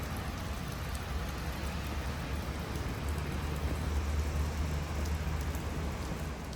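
Steady rain falling, an even hiss with faint scattered drop ticks, over a low steady rumble.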